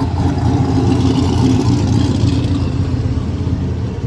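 A car's engine running as the vehicle drives past, loudest around the middle and easing off toward the end.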